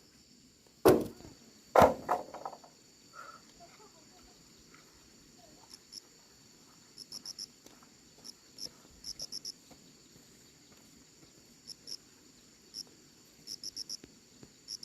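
Crickets chirping in short groups of two to four pulses over a steady high insect drone. Two loud sharp knocks, about a second apart, come near the start.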